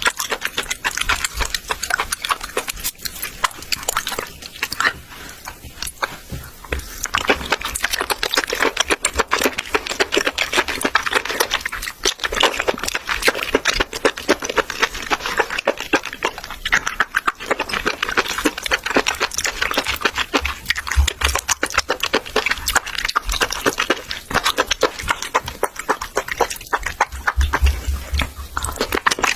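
Close-miked eating sounds of raw octopus being chewed and slurped: a dense, continuous run of wet smacks and clicks.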